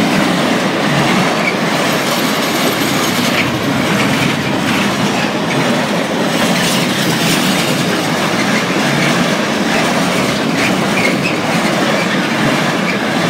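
A Freightliner intermodal freight train's container flat wagons running past at close range: a loud, steady rumble and clatter of steel wheels on the rails, with now and then a brief faint squeal.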